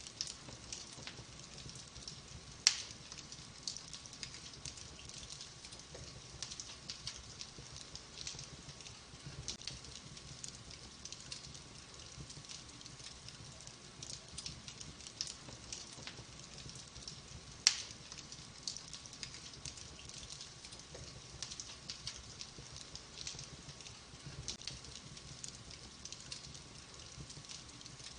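Wood fire burning in a fireplace: a steady soft hiss with irregular small crackles, and two loud pops, one a few seconds in and one just past the middle.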